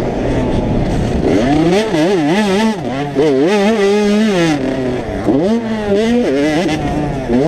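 85cc two-stroke motocross bikes running on the track, the engine pitch rising and falling quickly as the riders work the throttle, with more than one engine heard at once.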